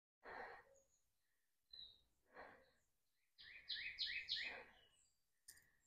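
Near silence with faint breathing, and about three and a half seconds in a bird gives four quick, high chirps in a row.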